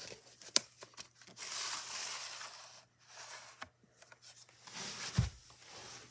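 A VHS tape and its case being handled: a few sharp plastic clicks, a rubbing, sliding noise lasting a second or two, and a dull knock near the end.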